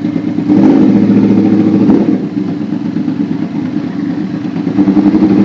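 Yamaha R1 inline-four engine running on the move, stronger under throttle for about a second and a half, easing off through the middle, then pulling harder again near the end.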